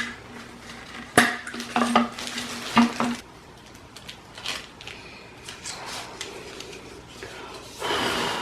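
Clicks, knocks and light clatter of hard fridge-door parts being handled and glued, with a steady low hum under the first three seconds and a louder rustling rush near the end.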